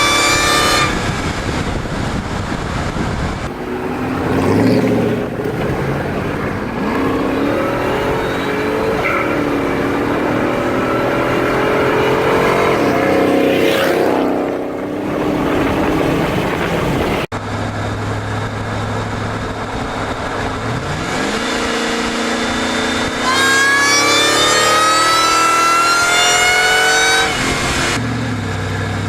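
Ford SVT Lightning pickup's V8 revving and accelerating past on fly-bys, the engine note climbing and falling, with a high whine that rises with the revs on the hard pulls. There is an abrupt cut to another pass a little past halfway.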